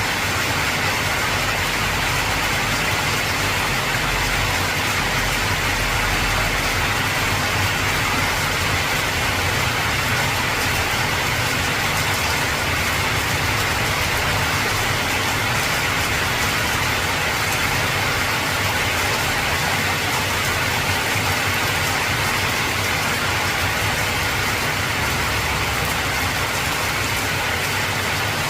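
Heavy rain falling on an old tin (zinc-sheet) roof: a steady, dense patter with a low undertone beneath it.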